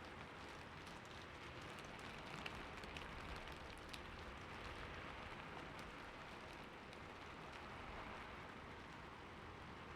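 Steady light rain falling, an even hiss with scattered individual drops ticking through it.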